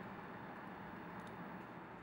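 Steady low hiss of background noise, with a couple of faint light ticks about a second in.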